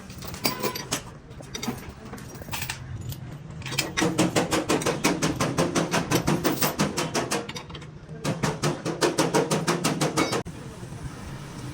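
Rapid, evenly spaced hammer blows on car-door sheet metal, about six a second, in two runs of a few seconds each with a short break between, over a steady low hum.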